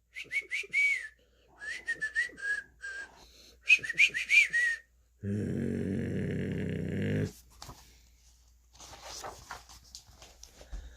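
Person whistling short chirping bird tweets in three quick runs, imitating lovebirds. About five seconds in comes a steady buzzing sound lasting about two seconds.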